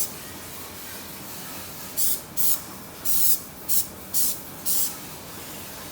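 About six short hissing spray bursts, each under half a second, coming in quick succession between about two and five seconds in, over a steady background hiss.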